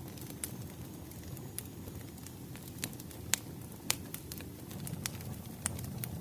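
Wood fire crackling: a steady low rumble of burning logs with sharp, irregular pops, the loudest about three and a half and four seconds in.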